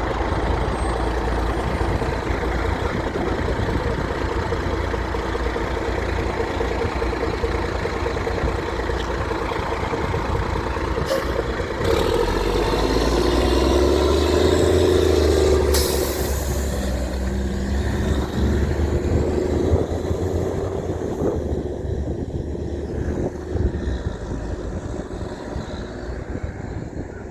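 Heavy trucks passing on a road, their diesel engines running, loudest about halfway through as one goes by close, with a short sharp hiss about sixteen seconds in; the noise eases off near the end.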